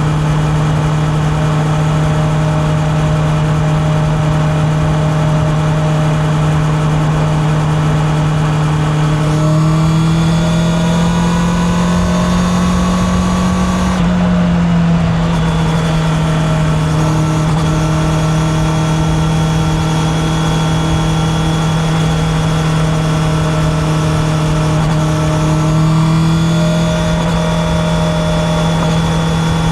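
Honda CB650R's inline-four engine running at a steady cruise, its note rising gently as the bike accelerates, then breaking and dropping sharply about halfway through, then rising once more near the end.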